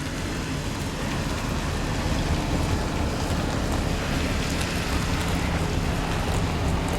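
Wood fires burning hard in sauna stoves with the ash pits fully open: a steady rushing roar of the draft with a low rumble.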